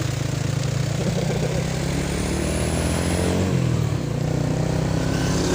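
Motorcycle engine running steadily under way, with rushing wind and road noise.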